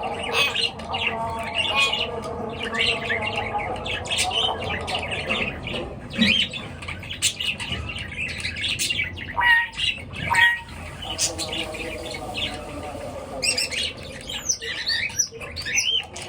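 Pet birds chirping and squawking, a dense run of many short calls, with two louder, sharper calls about ten seconds in.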